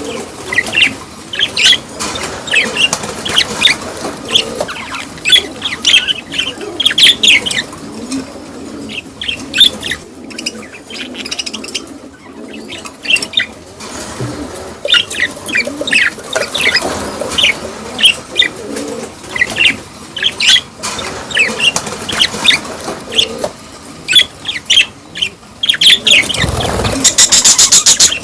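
A group of budgerigars chirping and chattering in a busy stream of short, high calls, with a brief rustling burst near the end.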